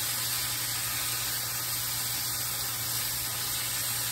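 Sliced yellow squash and onions sizzling steadily in hot oil in a skillet as they fry and start to brown.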